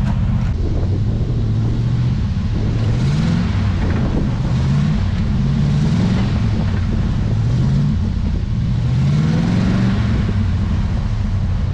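A motor vehicle engine running and being revved repeatedly, its pitch rising several times in short pulls throughout.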